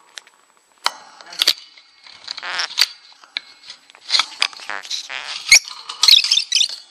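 A bird giving a string of short, sharp, high-pitched squeaks and chirps, more frequent and louder in the second half.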